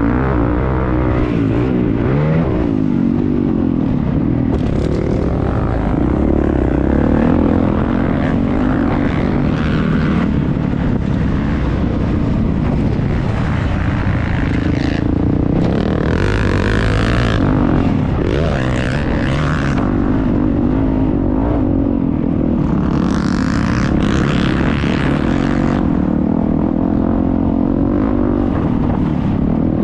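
Motocross bike engine heard from on board, revving up and down over and over as the throttle opens and closes. There are bursts of hiss about halfway through and again past two-thirds.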